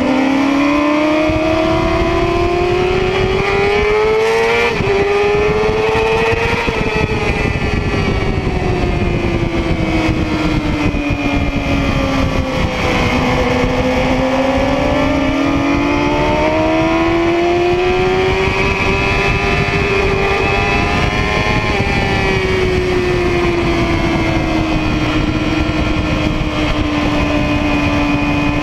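Yamaha YZF-R6's inline-four engine at high revs, heard from on the bike: its note climbs with a quick gear change about five seconds in, falls away slowly towards the middle, climbs again and eases off near the end. Wind rushes over the microphone.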